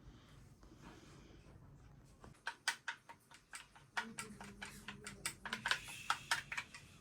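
A quick, irregular run of light clicks and taps, about twenty in four seconds, starting a little after two seconds in, with a faint steady hum under them for about two seconds in the middle.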